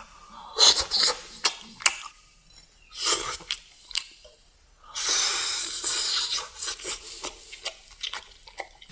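Close-miked eating sounds: crunchy chewing in short bursts, with a denser stretch of crackling about five seconds in.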